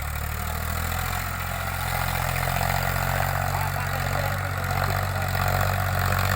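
Powertrac Euro 50 tractor's diesel engine running steadily at low revs, growing gradually a little louder.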